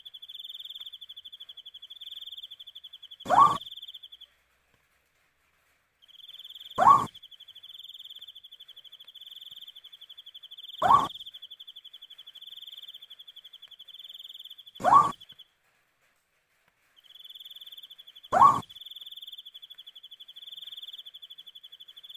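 An owl calls five times, a short rising hoot about every four seconds, over a steady pulsing cricket trill. The cricket trill breaks off twice.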